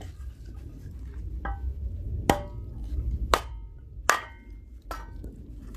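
Firewood being split on an upturned fixed splitting blade: five sharp strikes about a second apart, each followed by a short metallic ring.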